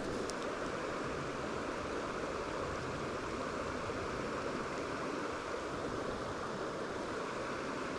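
Creek water running steadily over rocks, a constant rushing with no change in level.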